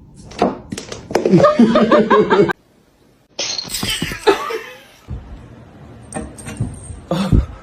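Laughter in short pitched bursts for about two seconds, then an abrupt break, followed by a hissy noise and a few scattered knocks.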